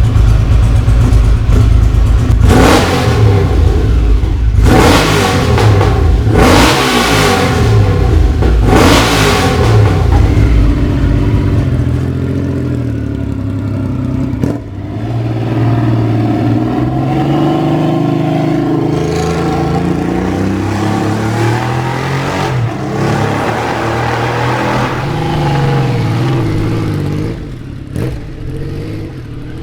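Honda CX 650 cafe racer's V-twin engine through peashooter silencers, revved in about four sharp blips over the first ten seconds. It then runs with its note rising and falling in pitch, quieter toward the end.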